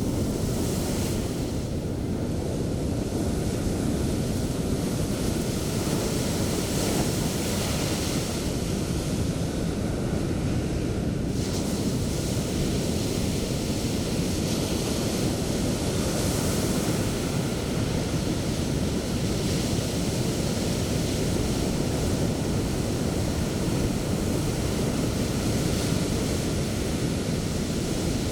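Sea waves breaking on the shore: a steady low rush of surf, with swells of hiss every few seconds as the white foam breaks, and wind buffeting the microphone underneath.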